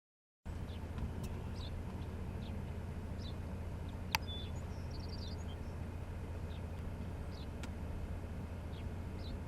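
Small birds chirping in short, scattered calls over a steady low rumble, with one sharp click about four seconds in.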